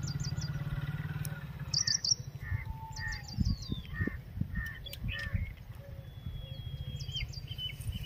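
Birds calling: clusters of quick, high chirps repeated several times, with a few lower whistled notes, over a steady low hum.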